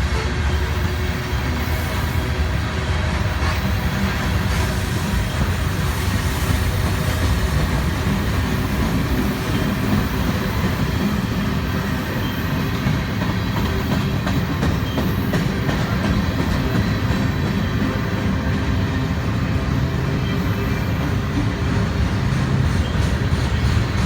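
Freight train rolling past, a steady rumble of wheels on the rails with some clickety-clack, unbroken throughout.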